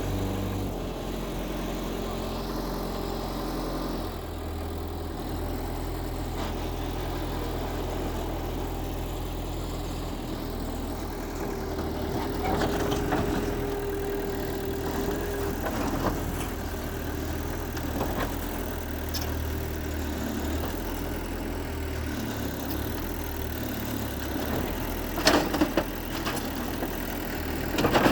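Diesel engine of heavy earthmoving machinery running steadily at low revs, with a held higher whine for a few seconds midway and a few sharp knocks near the end.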